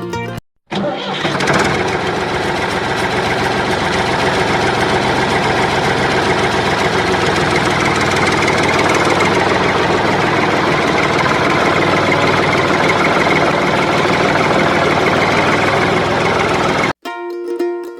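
Diesel tractor engine running steadily. It starts about a second in and cuts off suddenly near the end.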